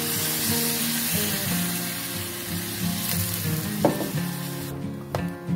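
Curry sizzling in a hot steel wok as liquid from a mixer-grinder jar is poured in and stirred with a ladle; the sizzle dies away near the end.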